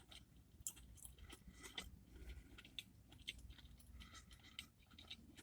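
Faint close-up chewing of a crispy fried chicken sandwich, with scattered small crunches and mouth clicks.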